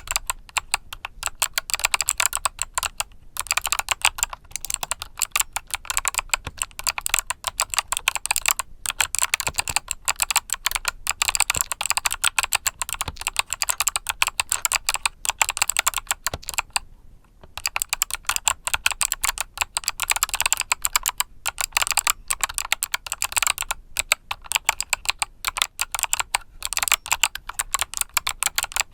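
Fast continuous typing on a mechanical keyboard with clicky Kailh Box switches, crisp clicks in quick succession. The typing stops briefly about halfway through.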